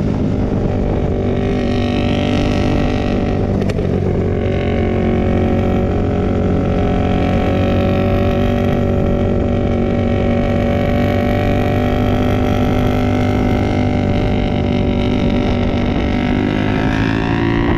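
Motorcycle engine running under way, its pitch dipping about four seconds in and climbing near the end as it speeds up.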